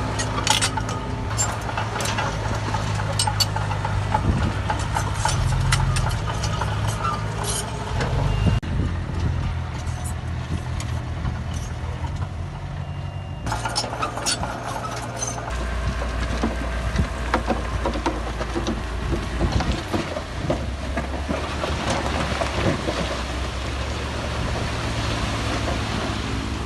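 Heavy diesel construction machinery running under load, with frequent metallic clanks and rattles. The sound changes abruptly twice, about a third and half way through.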